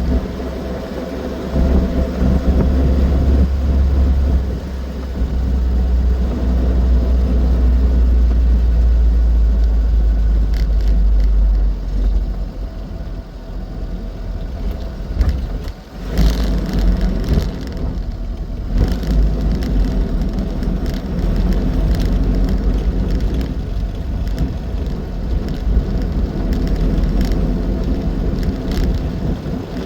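Austin 7 Ruby's small four-cylinder side-valve engine and road noise heard aboard while it is driven, a steady low rumble with a brief drop in level about halfway through.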